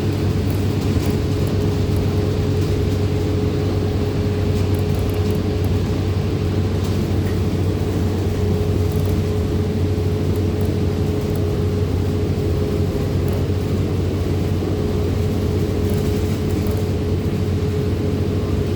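Transit bus running, heard from inside the passenger cabin: a steady low engine and road drone with a constant higher whine over it.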